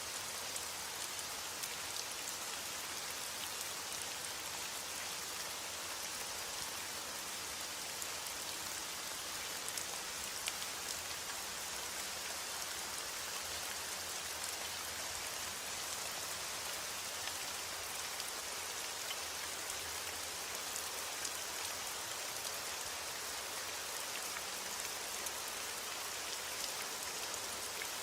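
Steady heavy rain: a continuous dense hiss of falling drops, with many small drop ticks through it.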